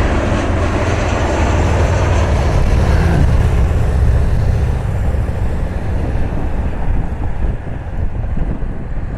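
Jet airliner on approach just after passing close overhead: a heavy low engine rumble, strongest in the first few seconds, that fades gradually as the aircraft moves away.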